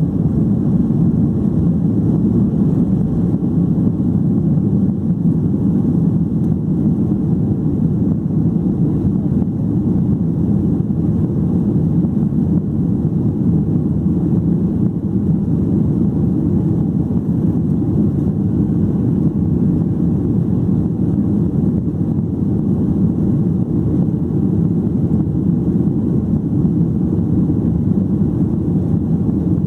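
Steady low roar of a Boeing 737-800's CFM56-7B jet engines and airflow, heard from inside the passenger cabin, holding even with no change in pitch or level.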